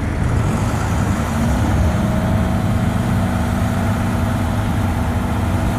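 A large dump truck's diesel engine running steadily under load, with a faint steady whine coming in about a second and a half in.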